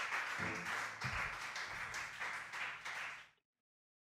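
Audience applauding after a live band's song, a dense patter of hand claps; the sound cuts off abruptly about three and a half seconds in.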